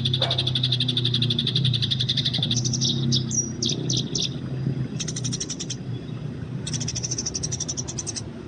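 Eurasian tree sparrows calling: a fast, even run of high chirps, then a few separate chirps, then two quick chattering runs near the end, as in sparrows squabbling. A low steady hum sits underneath for the first two seconds or so.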